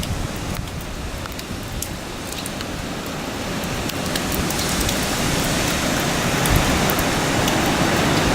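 Typhoon rain and wind, a steady hiss that grows louder over the second half.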